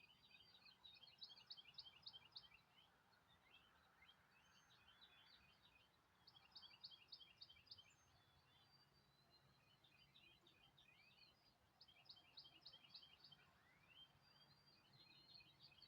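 Faint birdsong: a bird sings a phrase of rapid high notes three times, about five seconds apart, with scattered softer chirps in between.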